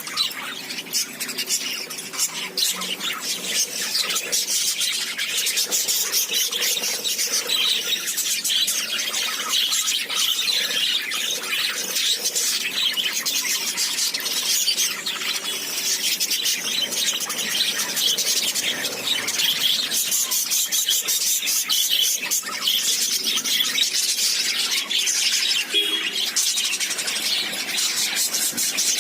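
Lovebirds chattering: a constant stream of shrill, high-pitched chirps and squeals.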